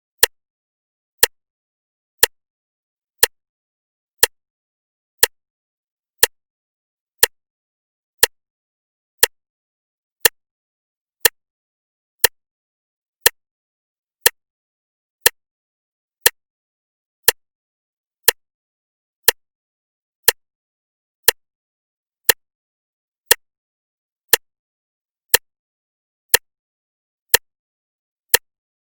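A clock ticking steadily, one sharp tick a second, with nothing audible between the ticks.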